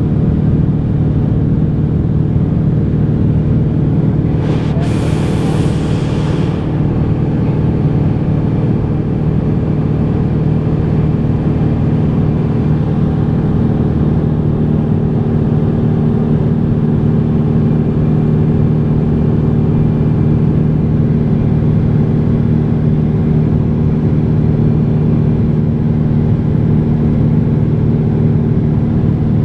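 Cessna 182's single piston engine and propeller running with a steady drone. About four seconds in, a brief hiss lasts roughly two seconds over it.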